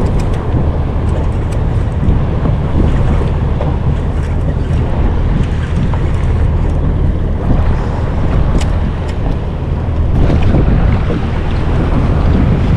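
Steady low rumble of wind on the microphone with water washing against a small boat, and a few faint ticks.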